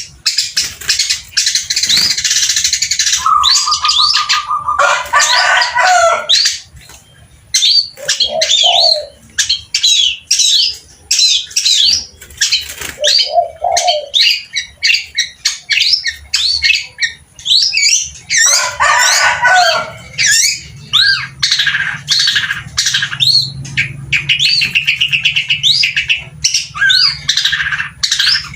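Long-tailed shrike (cendet) singing non-stop: a rapid, varied song packed with mimicked calls of other birds, made up of quick sharp chirps, trills and short rattling phrases with only brief pauses.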